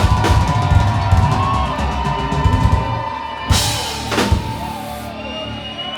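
Live band music with a full drum kit: steady kick and snare hits, a big crash about halfway through, then the music dies away near the end as the song finishes.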